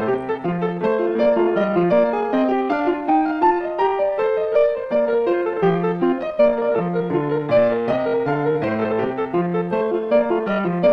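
Background piano music: a steady run of single notes and chords at an even tempo.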